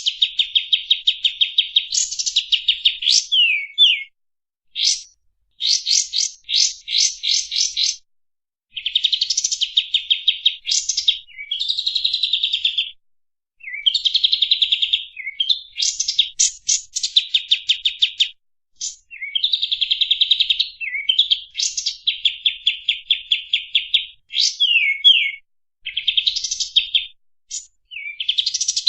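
A kapas tembak singing rapid, dense trills of fast repeated notes, in bursts of one to three seconds separated by short pauses, with occasional quick sliding notes between the trills.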